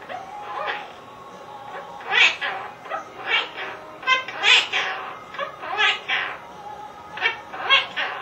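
Quaker parrot (monk parakeet) talking in short, squawky, speech-like bursts, with a quick rattling trill about four seconds in.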